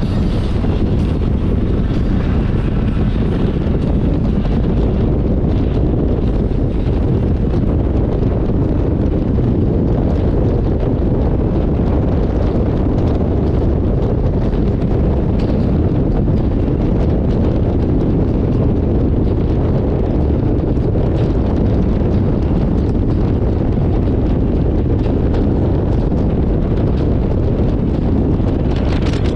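Steady, loud wind rush over the microphone of a camera on a moving motorcycle, mostly low-pitched, burying any engine and road noise.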